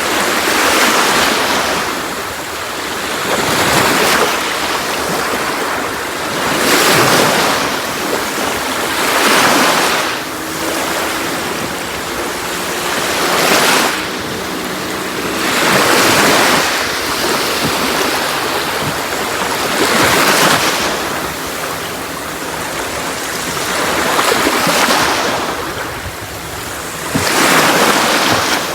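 Sea waves breaking and washing on a shore, a steady rush that swells with each wave every few seconds and then eases back.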